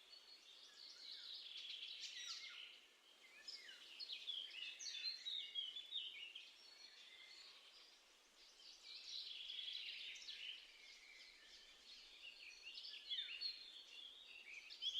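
Several songbirds singing at once, a dense tangle of overlapping chirps and trills that swells and eases off.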